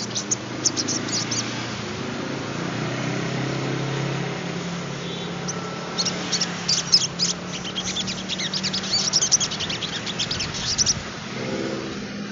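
Sogon trotol songbird singing in quick runs of high, thin chirps and trills: a short run at the start, then a long busy run through the second half. A low engine hum, like a passing vehicle, runs underneath through the middle.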